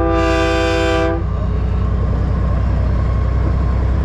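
A multi-chime train-style air horn on a big rig blows a chord of several tones, which cuts off about a second in. Under it a diesel truck engine drones steadily.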